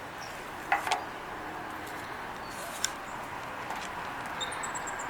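Steady outdoor background noise with a hum of distant traffic. Two sharp clicks come about a second in and another a couple of seconds later, and near the end there is a quick run of faint, high chirps that fall slightly in pitch.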